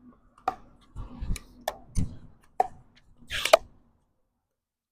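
Pickleball rally: sharp paddle strikes and ball bounces about every half second, with wind rumbling on the microphone. A scuffing, noisier burst comes near the end, then the sound cuts out for the last second.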